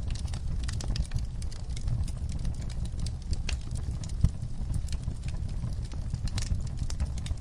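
Wood fire crackling in a fireplace: irregular sharp pops and snaps over a steady low rumble of the flames, with one sharper pop about four seconds in.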